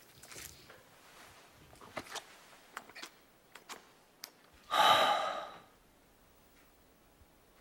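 Faint rustling and small clicks, then one loud breathy sigh from a person about five seconds in.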